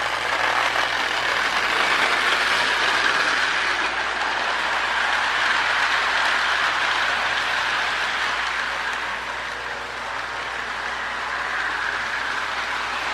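Marx E7 toy train locomotive with its original early double-reduction motor running on fresh motor brushes, pulling a nine-car train: a steady whirring hum of motor, gears and wheels rolling on the track. It swells a couple of seconds in and eases off later as the train moves along the layout.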